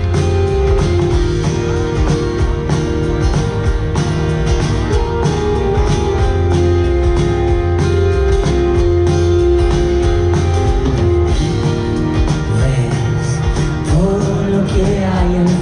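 A band playing a song live: a steady drum beat and bass under held guitar or keyboard chords. Near the end a bending melodic line comes in over the chords.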